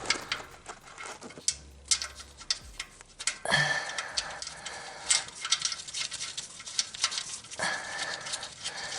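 Irregular clicks and knocks of hand tools and metal parts being handled during work on the vehicle.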